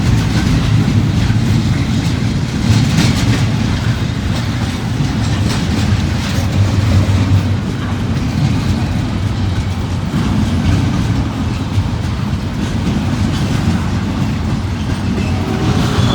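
Freight cars of a long intermodal train rolling past, a steady rumble of steel wheels on rail with irregular clicks from the rail joints.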